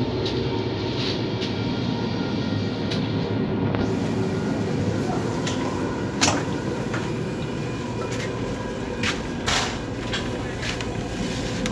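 Steady running rumble and hum of an ICE high-speed train, heard from inside the carriage, with a few sharp knocks and clicks about six seconds in and again around nine seconds in.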